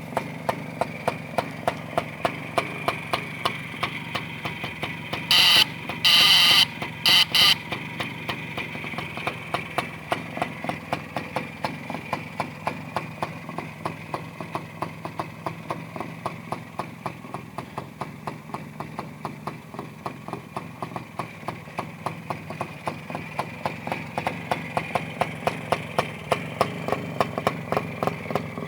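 The single-cylinder two-stroke engine of a 1958 Minsk M1M motorcycle idling, with a regular train of exhaust pulses about three a second. About five seconds in there are three short, loud, high-pitched blasts.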